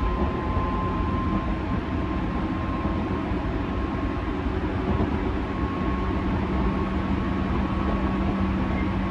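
Interior running sound of a JR 205-3100 series electric train at a steady speed: a constant rumble of wheels on rail with a steady hum from the running gear.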